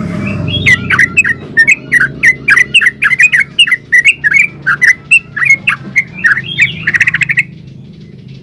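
Yellow-vented bulbul singing a long, fast run of chirping notes, about four a second, ending in a quick rattle and stopping about seven and a half seconds in. A faint low hum lies underneath.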